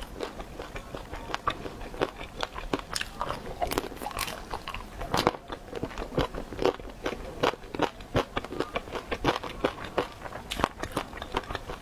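Close-miked chewing of fried dumplings: a steady run of small crunches and clicks from the mouth.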